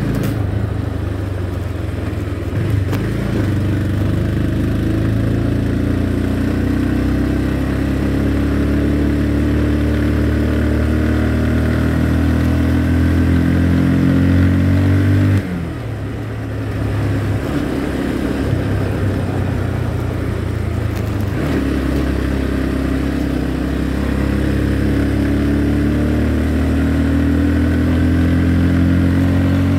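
Motorcycle engine running while riding, its note climbing slowly as it pulls. About halfway through the engine note drops suddenly, then builds up again.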